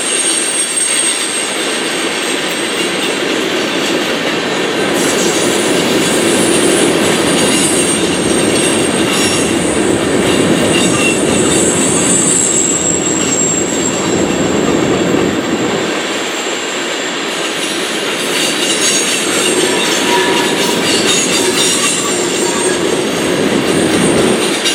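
Freight train cars rolling steadily past on the rails, with a high, thin wheel squeal that comes and goes over the rumble of wheels on track.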